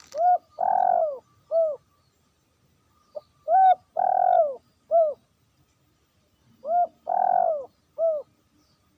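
Zebra dove (perkutut) cooing: three loud phrases about three seconds apart, each a short note, a longer falling coo, then another short note.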